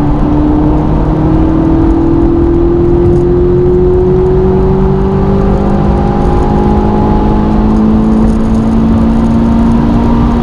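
Ferrari 458's 4.5-litre V8 through an aftermarket Capristo exhaust, pulling under acceleration, its note climbing slowly and steadily as the revs rise.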